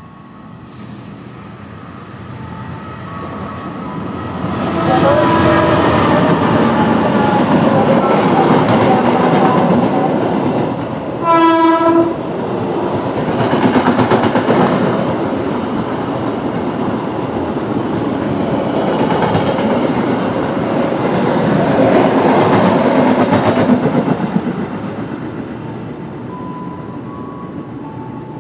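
Long-distance passenger train hauled by a CC206 diesel-electric locomotive passing through the station. Rumble and wheel clatter build over the first few seconds, stay loud as the carriages go by, then ease off near the end. A short horn blast sounds about eleven seconds in.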